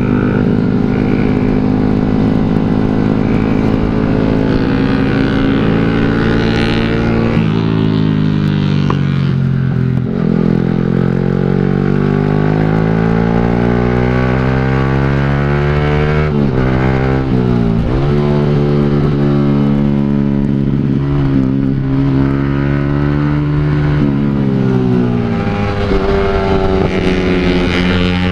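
Motorcycle with an aftermarket exhaust accelerating through the gears while riding. The engine note climbs and then drops sharply at each upshift, several times over.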